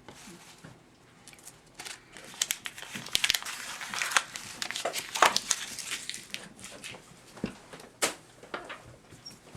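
Crumpling and rustling handling noise with many irregular small clicks and crackles, starting about two seconds in.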